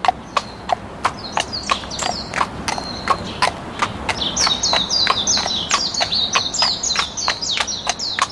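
A horse's hooves clip-clopping on hard ground in a steady rhythm of about three strikes a second. Birds chirp over it in quick, high, falling notes, growing busier about four seconds in.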